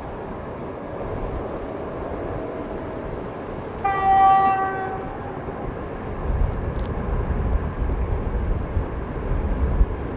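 A train's horn sounds once for about a second, around four seconds in, over wind noise and the rumble of an approaching train, which grows heavier from about six seconds on.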